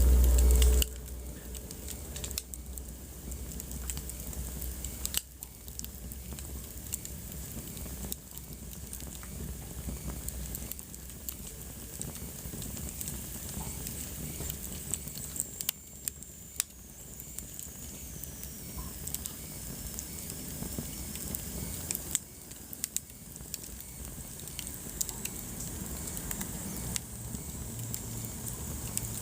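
Wood fire burning in a fireplace, crackling with irregular sharp pops over a steady low rumble. A loud low rumbling thump comes in the first second, and a faint high whistle slides down in pitch around the middle.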